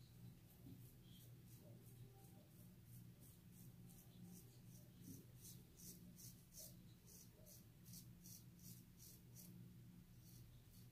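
Faint rapid scraping of a CJB Kamisori shavette's blade cutting stubble through shaving lather: short strokes at about three a second, over a low steady hum.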